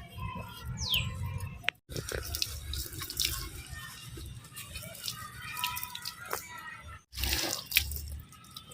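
Water splashing and dripping with many small clicks and knocks, cut off abruptly twice.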